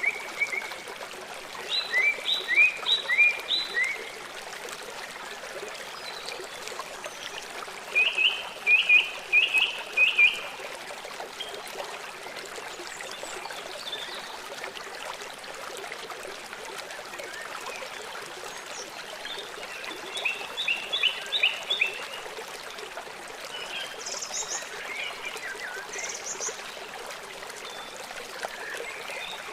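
Small songbirds singing in short bursts of quick repeated chirps, three louder bursts and some scattered higher calls, over the steady rush of a running stream.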